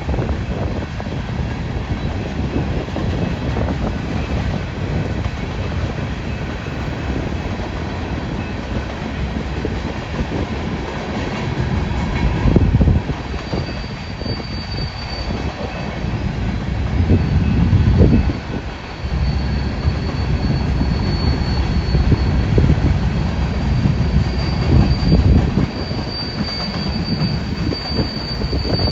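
A BNSF coal train's cars rolling past, a continuous rumble and clatter of steel wheels on rail that swells and eases unevenly. A faint high wheel squeal comes in about halfway through.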